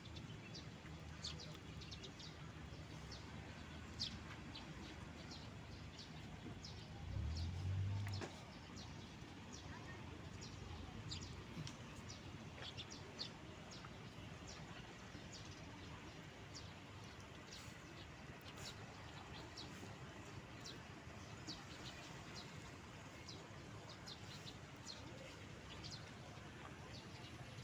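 Small birds chirping again and again over a steady background hiss. There is a brief low rumble about seven seconds in.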